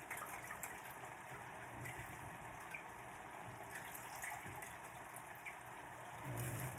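Food cooking in a pan: a steady sizzling hiss with scattered small crackles, and a low bump near the end.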